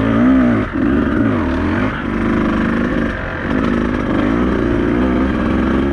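Beta 200RR two-stroke enduro motorcycle engine being ridden on a trail, its pitch rising and falling over and over as the throttle is worked on and off.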